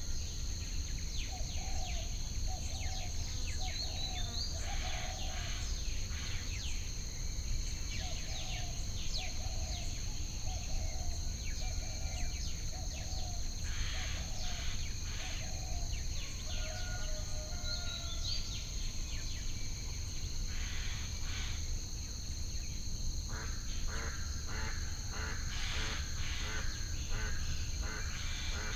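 Added nature ambience: a steady high insect trill, two runs of short repeated bird calls, scattered chirps and clicks, and a constant low rumble underneath.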